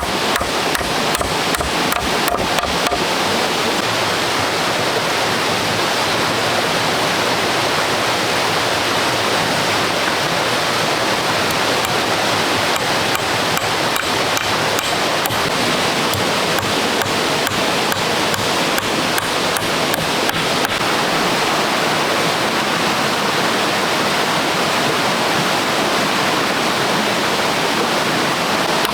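Steady rushing water noise, with a series of sharp knocks in the first three seconds.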